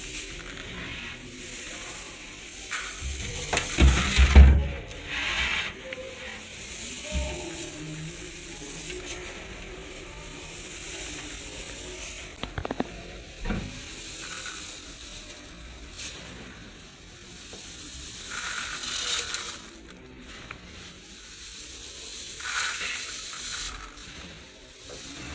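Dry rice grains rustling and crackling as they are handled, an uneven gritty hiss with louder swells and a few sharp clicks. The loudest part, with dull thumps, comes about four seconds in.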